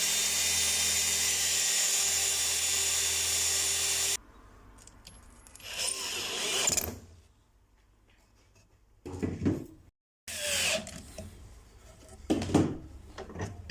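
Electric drill driving screws into wood to fasten the birdhouse walls together. It runs steadily for about four seconds and stops abruptly, then comes a few shorter bursts and knocks.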